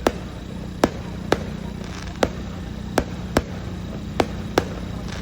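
Aerial fireworks bursting overhead: about eight sharp bangs at uneven intervals over a steady low background noise.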